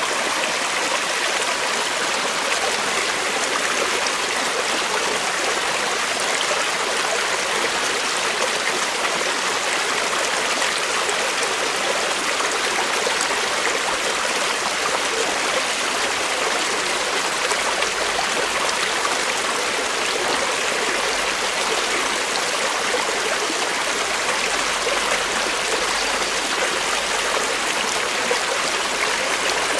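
Creek water flowing steadily over rocks, an even rushing and trickling.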